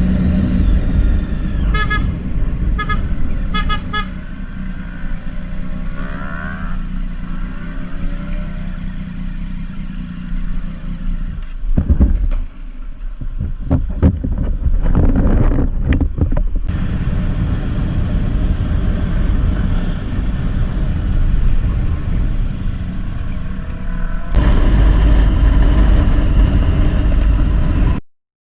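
Riding noise from a motorcycle in traffic, with a vehicle horn honking three or four short times about two to four seconds in. The sound changes abruptly twice later on, and cuts off just before the end.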